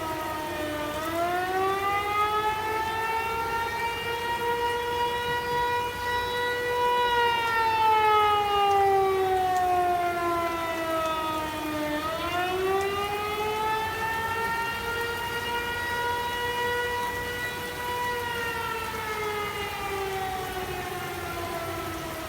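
Outdoor tornado warning siren wailing in long slow cycles: its pitch climbs, holds, then slowly sinks, rising again about a second in and about twelve seconds in. The sound signals a tornado warning in effect.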